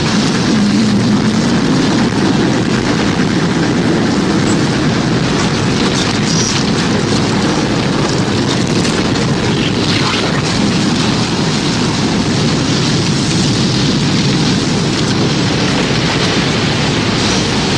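Tornado wind sound effect: a loud, steady, low rumble of wind noise without pause.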